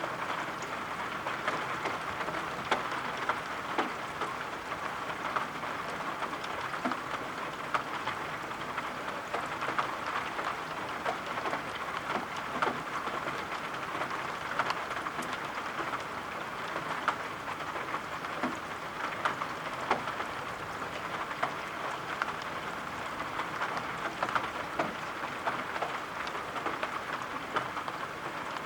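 Steady rain with many scattered drop taps.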